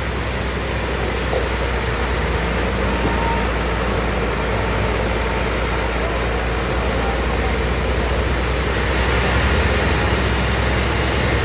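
Sawmill machinery running steadily with a low hum, with a high hiss over it that stops about eight seconds in.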